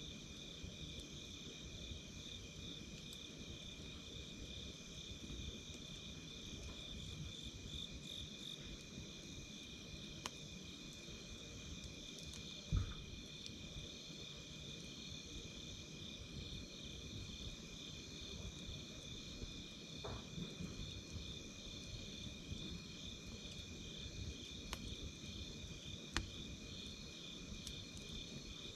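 Night insects calling in a steady, pulsing chorus over a wood campfire, with a low rustle of burning and a few sharp crackling pops, the loudest about halfway through.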